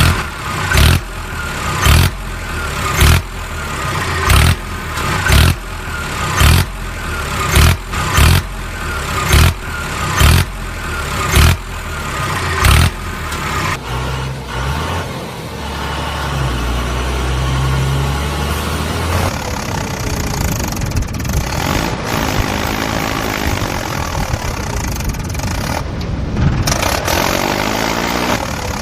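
A vehicle engine running, with loud regular thumps about once a second for roughly the first half, then a steady run.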